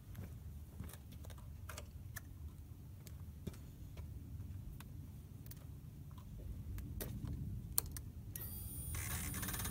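Scattered small clicks and taps of keys and motorcycle controls being handled, then, near the end, a steady high electrical whine for about two seconds as the Triumph Rocket 3's ignition is switched on.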